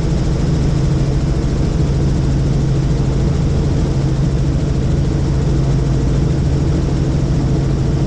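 Helicopter in flight: steady turbine and rotor noise, with a strong low hum and a fast, even beat from the rotor blades.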